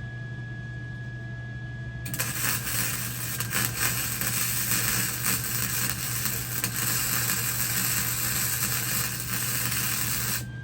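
Electric welding arc crackling and hissing steadily for about eight seconds as a weld is run on the smoker's steel, starting about two seconds in and cutting off sharply near the end. A steady low machine hum runs underneath.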